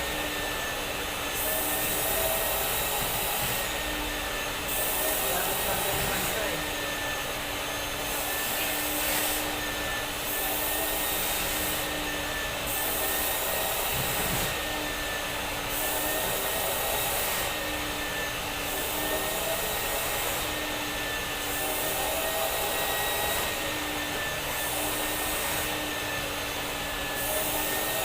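Vacuum cleaner running steadily: a constant rush of air with a motor whine whose pitch wavers slightly.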